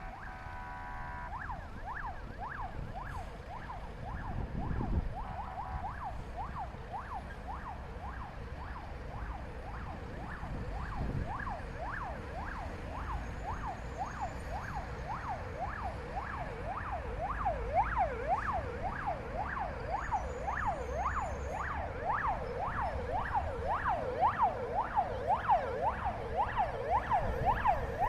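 Russian fire truck's electronic siren on a fast yelp, sweeping up and down about twice a second and growing louder toward the end. It opens with a steady multi-tone air-horn blast that stops about a second in, over a low vehicle rumble.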